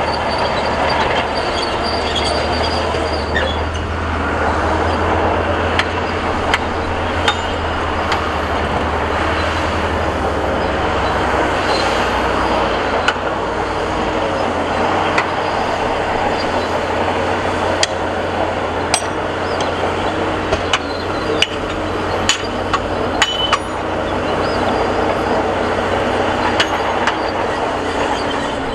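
Crawler bulldozer working: a diesel engine running under a steady mechanical din, with the steel tracks clanking and squealing in many sharp metallic clinks. The engine's low hum drops away about halfway through.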